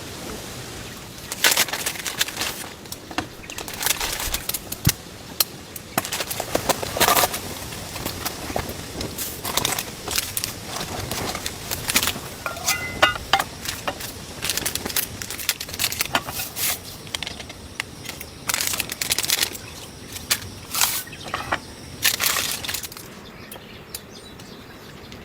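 Irregular rustling and crinkling in short bursts, as of fabric or bags being handled close to the microphone, over a steady hiss that fades near the end.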